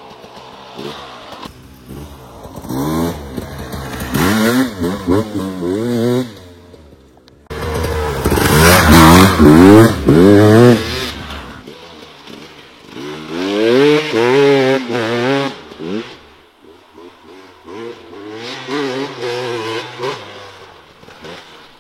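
Motorcycle engine revving in four loud spells, its pitch swinging up and down quickly within each spell, with quieter running between them.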